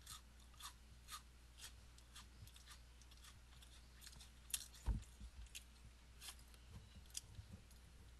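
Faint mouth noises from a person close to the microphone: small clicks and smacks about two a second, with one louder thump about five seconds in.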